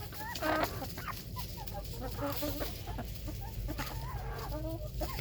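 A flock of backyard chickens clucking and calling over one another, many short calls throughout.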